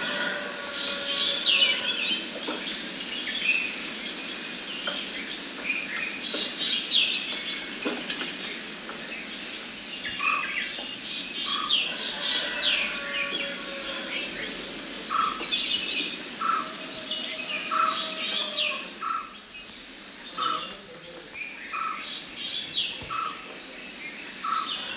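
Several birds chirping and calling over steady outdoor background noise; from about ten seconds in, one bird repeats a short, lower note about once a second.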